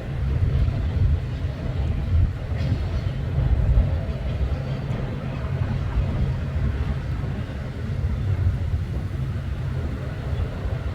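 Steady low rumble of a passing freight train.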